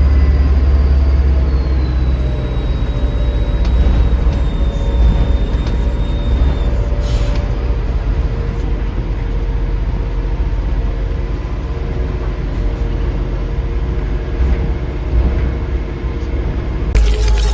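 Diesel engine of bus 69447 running with a steady low rumble, its turbo whistle sliding down in pitch and fading over the first few seconds. A short hiss comes about seven seconds in.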